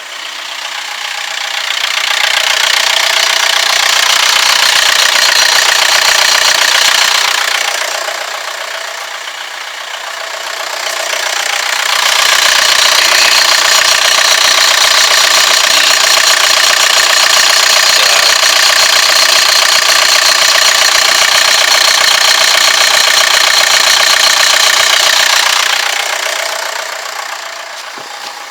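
The 2004 VW Jetta running with its A/C on after a new compressor clutch coil: a loud, steady mechanical whirr. It swells up, eases off for a few seconds, then swells again and holds for about thirteen seconds before dying down.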